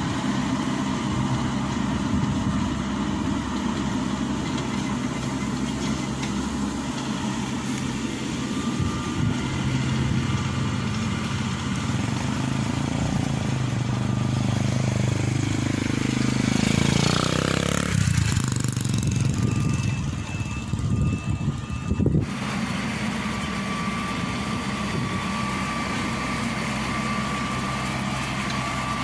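Diesel engine running steadily, then slowing with a falling pitch a little past halfway; after a sudden break it is followed by another steady engine drone with a thin high whine.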